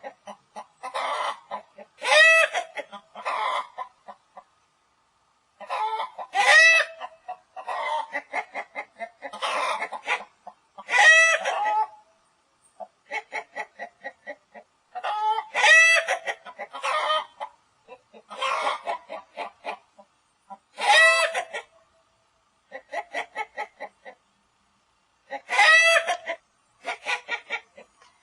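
Rooster clucking in runs of quick, short clucks, with a louder drawn-out call about every four to five seconds.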